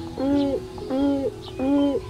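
Grey crowned crane calling: three short hooting honks in a regular series, each rising and falling slightly in pitch, about two-thirds of a second apart. Soft piano notes are held underneath.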